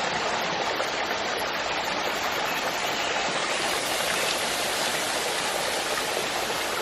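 Steady rush of falling and running water from a waterfall and its stream.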